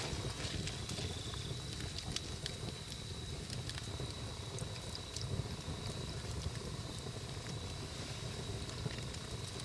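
Wood campfire burning, a low rumble of flames with scattered sharp crackles and pops. A faint steady high whine sits underneath.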